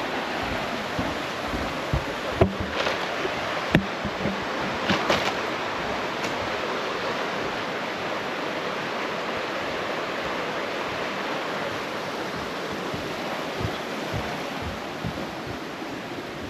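Steady rush of creek water flowing over rocks, with a few short knocks in the first five seconds.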